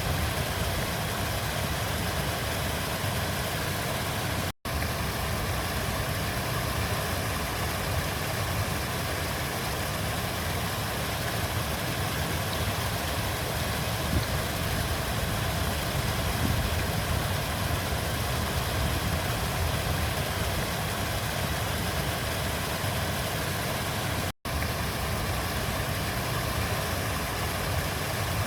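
Steady rush of flowing river water, an even wash of sound that cuts out for a split second twice, once about four seconds in and again near the end.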